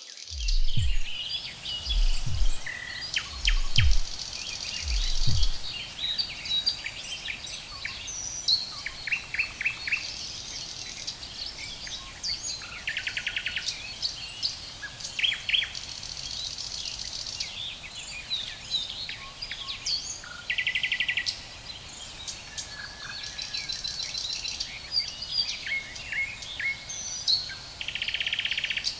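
Birdsong ambience: several small birds chirping, with rapid buzzy trills recurring every few seconds. Over the first five seconds, low thuds come in pairs, like a slow heartbeat.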